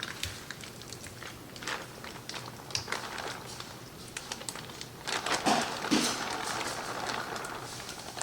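Kitchen handling noises: scattered clicks and knocks of utensils and dishes, with a louder stretch of scraping and rustling about five seconds in.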